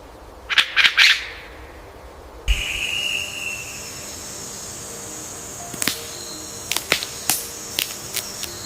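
Documentary soundtrack of soft background music and sound effects. Several sharp rasping bursts come about half a second to a second in. After a sudden cut about two and a half seconds in, a steady high hiss-like drone takes over, with scattered sharp clicks in the second half.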